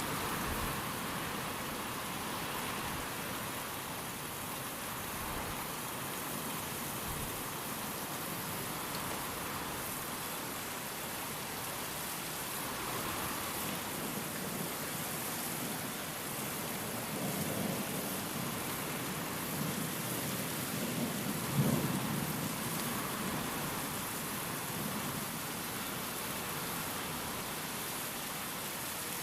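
Steady rain, with a low rumble of thunder swelling about two-thirds of the way through and peaking briefly before fading back into the rain.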